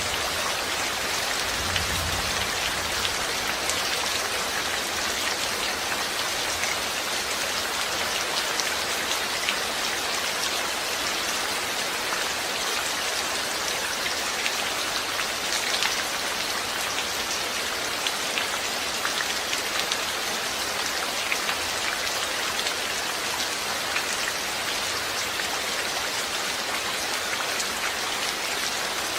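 Steady rain falling, an even hiss of many drops with fine individual drop ticks on a surface.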